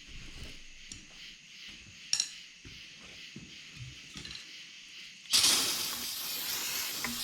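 A sharp metal clink of parts being handled, then a loud two-second hiss from an aerosol can of brake cleaner being sprayed onto the hydraulic cylinder, cutting off near the end.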